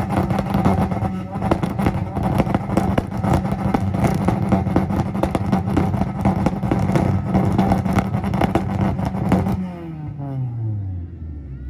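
A tuned car engine held on a two-step launch limiter: the revs sit at one steady pitch with a rapid crackle of pops and bangs for about nine seconds, then drop away as the throttle is let off.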